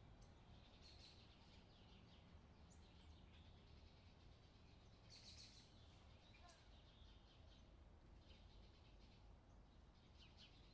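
Faint, short, high-pitched bird chirps at irregular intervals over a low steady background rumble.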